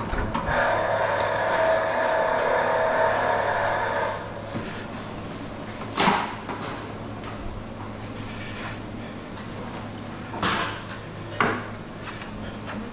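A power tool's small motor runs steadily for about four seconds and then stops. A few separate knocks and clanks follow.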